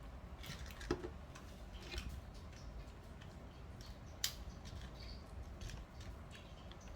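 Soft, scattered clicks and taps of someone eating and handling snack food, with a sharper click about a second in and another just after four seconds.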